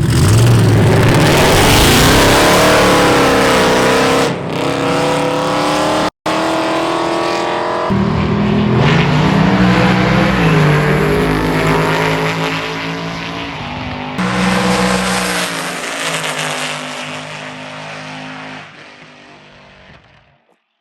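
Street cars racing at full throttle, their engines revving hard and rising in pitch again and again across several shots. A brief dropout comes about six seconds in, and the engine sound fades away near the end.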